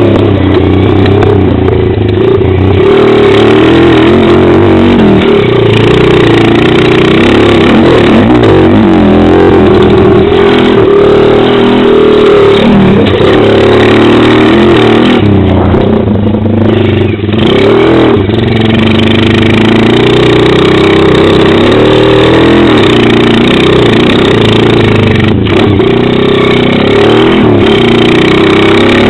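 Pit bike's small single-cylinder engine running hard and revving up and down as it is ridden, heard very loud from the rider's helmet. There is a brief dip in revs about seventeen seconds in.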